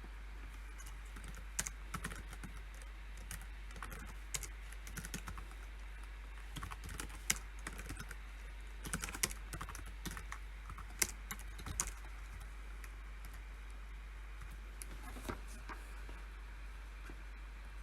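Typing on a computer keyboard in short runs of keystrokes that stop about twelve seconds in, followed by a few single clicks. A steady low hum runs underneath.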